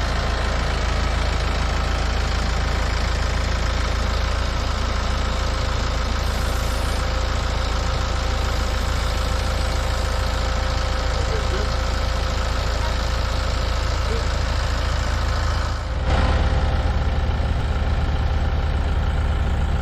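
Tractor engine running steadily. About three-quarters of the way through it dips for a moment, then its low hum is louder.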